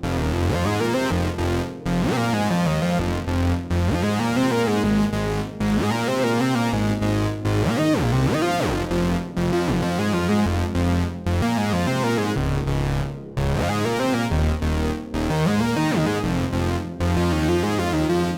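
IK Multimedia Uno Synth Pro X analog synthesizer playing a demo patch: a stepping line of low notes with pitch glides sweeping through the higher notes, broken by a few short gaps.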